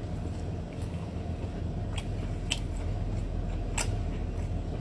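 Close-miked eating sounds: sea snail meat being sucked off a pick and chewed, with a few sharp wet mouth clicks about two, two and a half and nearly four seconds in, over a steady low hum.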